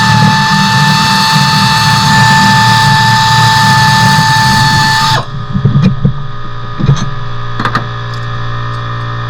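A loud, steady machine drone with a high whine, cutting off abruptly about five seconds in; after it, a lower steady hum with a few sharp clicks and knocks.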